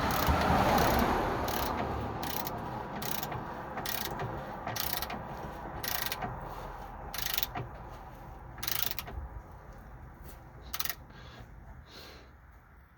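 Hand ratchet wrench clicking in short bursts, one every second or so, as a nut on the sway bar link is turned. The bursts come further apart and grow fainter toward the end.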